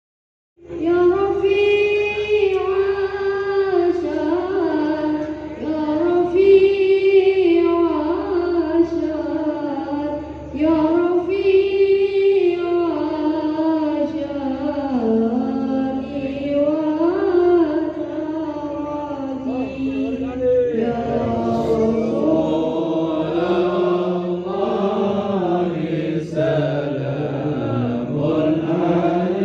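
A man's solo voice chanting devotional recitation in long, drawn-out ornamented phrases, each about five seconds long, with the melody dropping to a lower register in the last third.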